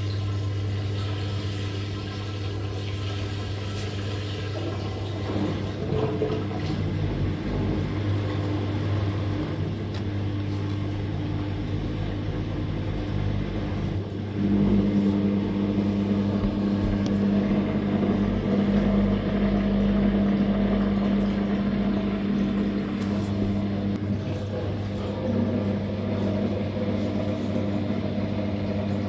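Drain pump of a Living & Co 5.5 kg top-load washing machine running with a steady hum as it pumps water out of the tub. About halfway through, a louder, higher tone comes in.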